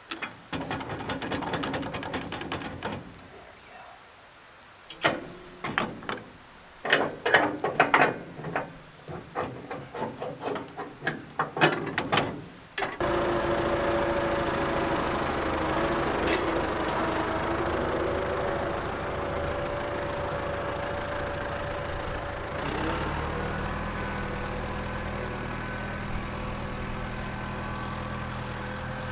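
A series of irregular metal knocks and clanks, then about halfway through an engine comes in abruptly and runs steadily at idle.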